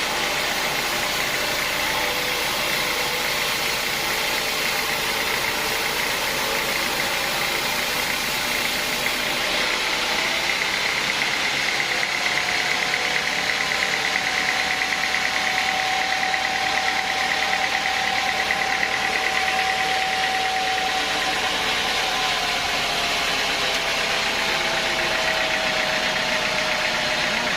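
Sawmill machinery running steadily, an engine-driven saw with a constant mechanical din and a high whine; a second, lower tone rises slightly about halfway through and sags near the end.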